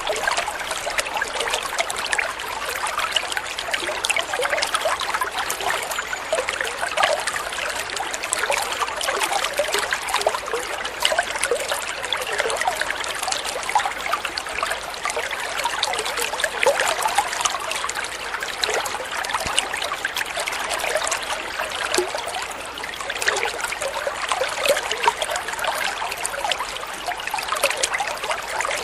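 Water flowing and trickling steadily over stones, a continuous babbling with many small splashes.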